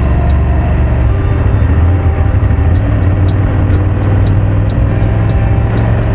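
Motorcycle engine running steadily while riding, with faint short ticks repeating about twice a second.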